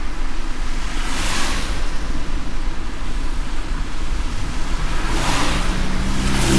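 Car driving on a wet road in light rain: a steady low road rumble under rushing hiss, with a swell of hiss about a second in and another near the end.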